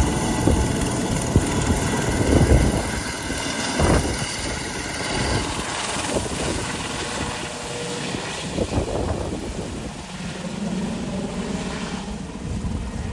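Medical helicopter's turbine whine and rotor noise, strong at first and fading steadily as it moves away.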